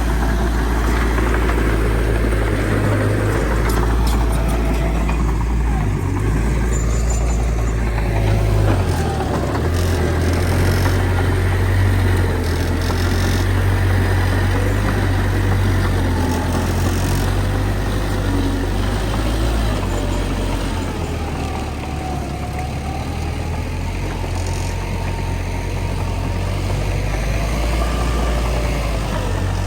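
Heavy diesel engines of earthmoving machinery running steadily: a deep, continuous rumble whose pitch shifts now and then, with a faint wavering whine above it.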